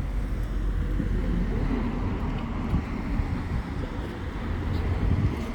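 Cabin noise inside a BYD BD11 battery-electric bus: a steady low rumble with a few faint rattles and clicks.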